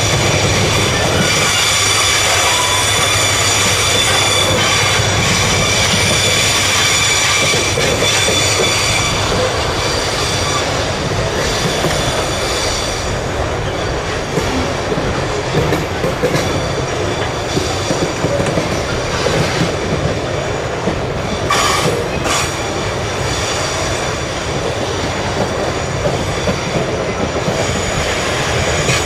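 Freight train rolling past with a continuous rumble of wagons on the rails, its wheels squealing in high steady ringing tones for roughly the first half. Two sharp metallic clanks come close together about two-thirds of the way through.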